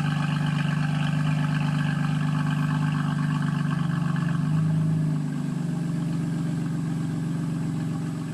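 BMW M4 Competition's S55 twin-turbo inline-six idling with the exhaust valves open and the secondary catalytic converter core removed. It runs at a steady, loud idle, then about five seconds in it swells briefly and settles to a lower, quieter idle.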